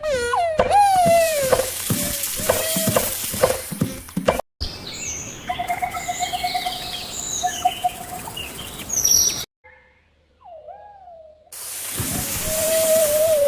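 Bird calls and chirps in several short clips joined with abrupt cuts, including a short trill in the middle and a single swooping call after a brief near-silent gap.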